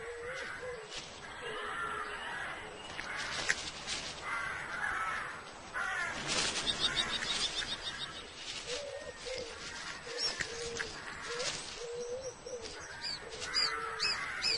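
Birds calling: a run of short, repeated low harsh calls, with higher chirps and notes over them.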